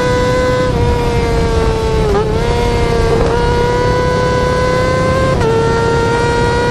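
Yamaha R6 inline-four engine held at very high revs, a steady high-pitched scream with brief small dips in pitch about a second in, near two seconds and around five and a half seconds. Wind and road rush lie underneath.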